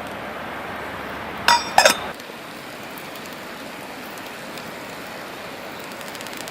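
A campfire crackling over a steady hiss, with two sharp ringing clinks of metal or glass about a second and a half in.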